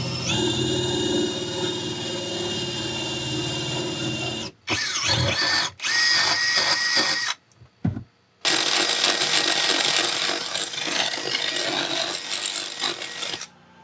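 Electric drill running under load as it cuts the thru-hull hole through the fibreglass hull, a steady whine with grinding. The sound stops abruptly and resumes several times near the middle.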